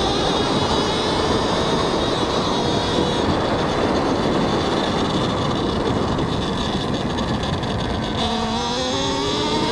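Talaria X3 electric dirt bike's motor whining under way, over heavy wind noise on a helmet mic. The whine climbs in pitch near the end as the bike speeds up.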